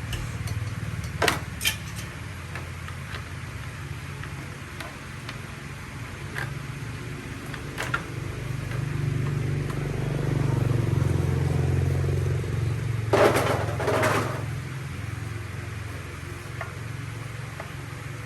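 A steady low mechanical hum, like a motor running, that swells midway. Over it come scattered sharp clicks and two short, louder clattering scrapes a little past the middle.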